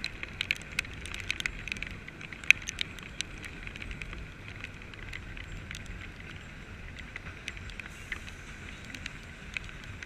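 Puffing Billy train running along the track, heard from its open carriage: a steady low rumble with many irregular sharp ticks, thickest in the first few seconds.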